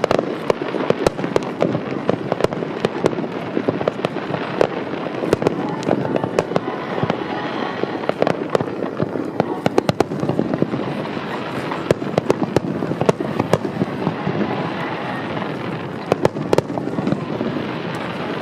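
Fireworks exploding in quick succession, dense sharp crackling and bangs over a continuous rumble.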